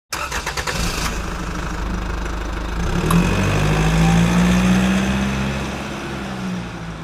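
Vehicle engine cranking with a rapid run of clicks as it starts, then running and revving up about halfway through before fading out near the end.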